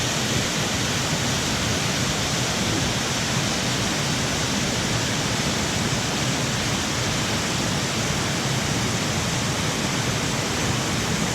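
Waterfall pouring steadily close by: a dense, even rush of falling water.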